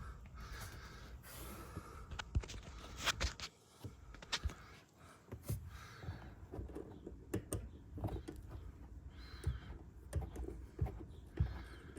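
Scattered light clicks and knocks with soft rustling, irregular throughout.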